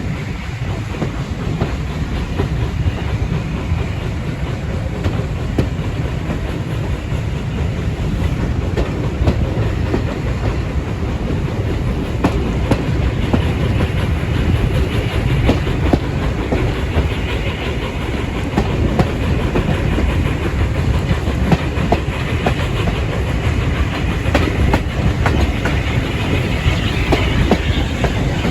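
Train running along the track: a steady rumble with wheels clicking and knocking over the rail joints.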